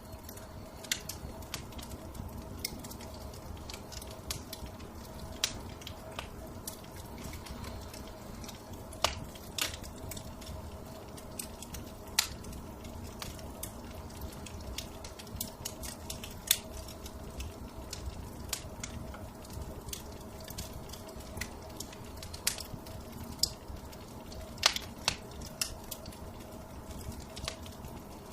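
Wood fire crackling in a fireplace: irregular sharp pops and snaps over a steady low rumble and faint hum.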